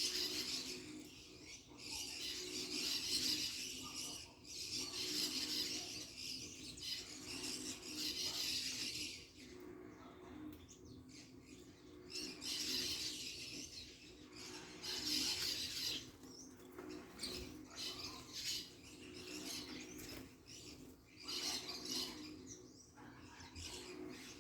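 Wild birds chirping and fluttering, with recurring stretches of high rustling hiss a few seconds long.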